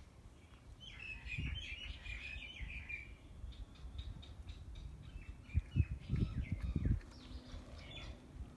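Birds chirping, with a quick run of calls about a second in and scattered chirps after. A few low thumps come about six seconds in.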